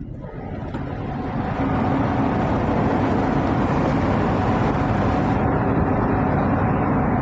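Loud, steady machinery noise aboard a passenger ship, a dense rumble and hiss with a faint hum. It swells over the first second or two, then holds level.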